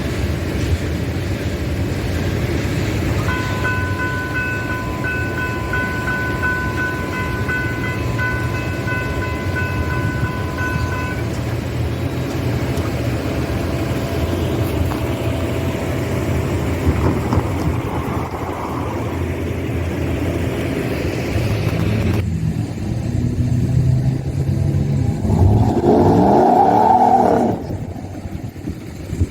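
Train rumbling past with a locomotive's multi-note air horn sounding steadily for about eight seconds near the start. Near the end a motor vehicle's engine rises and falls in pitch.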